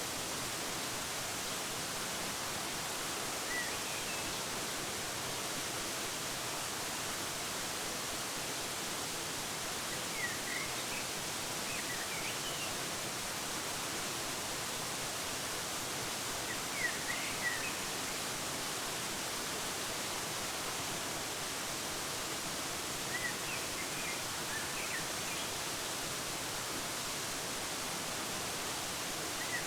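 Steady rushing of a waterfall, with short bird chirps breaking through in small groups several times.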